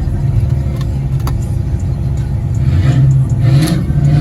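Car engine running with a deep, uneven rumble, growing a little louder in the second half.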